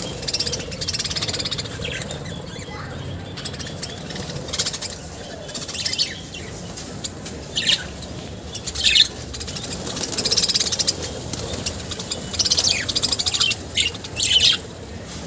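Many pet birds chirping and squawking together: a dense chatter of short, high calls, with louder bursts of chattering now and then.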